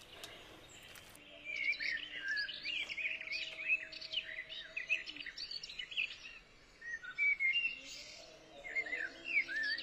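Small songbirds chirping and twittering in quick, overlapping calls, starting about a second in, with a brief gap a little past the middle.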